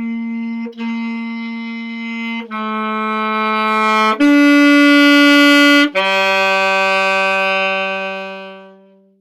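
Saxophone playing a slow line of single held notes in a crescendo, growing louder over the middle notes to a loud peak. A long final note starts loud and then fades away to silence.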